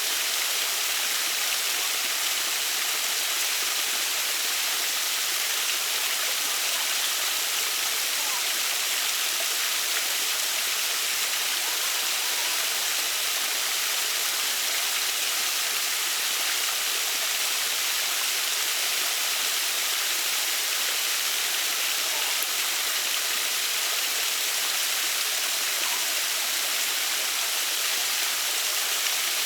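Water of a small waterfall rushing and splashing steadily.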